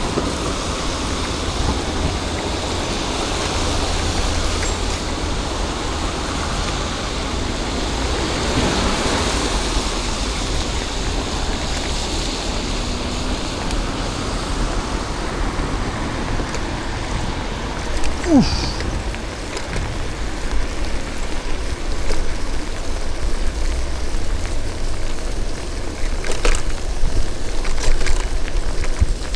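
Steady city road noise on wet streets during a bicycle ride: tyres hissing on wet asphalt and passing traffic, with a brief falling squeal a little past halfway.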